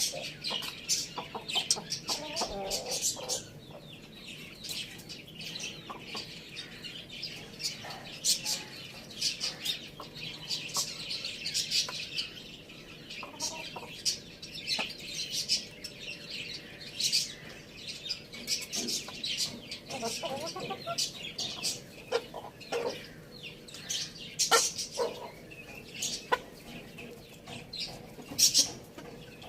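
Chickens, a rooster and hens, clucking while they feed, over many short sharp ticks of pecking all through.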